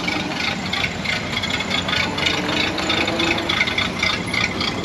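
Rain pattering in dense, irregular ticks over a steady low engine hum.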